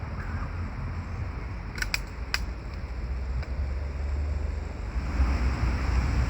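Low rumble of wind buffeting the microphone outdoors, growing stronger near the end, with three sharp clicks close together about two seconds in.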